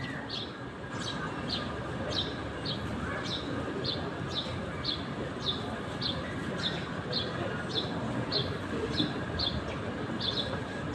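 A small bird chirping over and over: short, high, slightly falling notes about two to three a second, over a steady background hiss.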